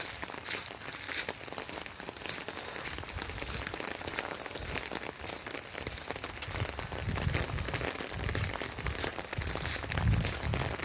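Rain pattering on an umbrella held overhead, many fine drop ticks, with low thuds joining in the second half.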